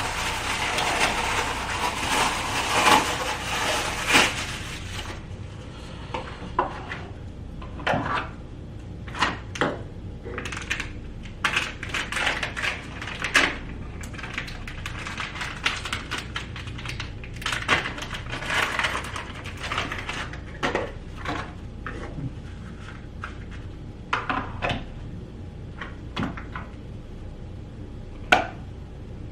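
A steady hiss for the first few seconds, then irregular clicks, knocks and clatter of small hard objects.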